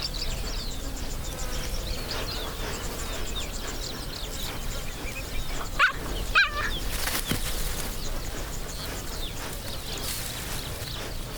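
Cheetahs calling with short, high, bird-like chirps and yelps. Two loud ones come about six seconds in, over a steady outdoor background.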